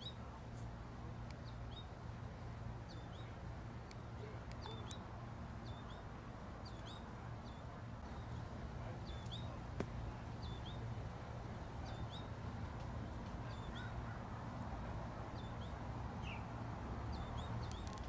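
A small songbird repeats a short, high, hooked call about once a second, over a steady low hum, with one sharp click about halfway through.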